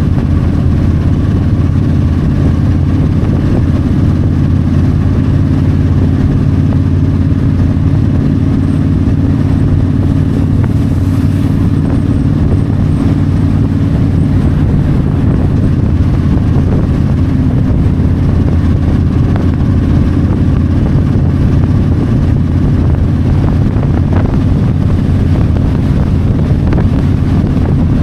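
Yamaha V-Star 1300's V-twin engine running at a steady highway cruise, holding an even pitch throughout, with wind rushing past the microphone.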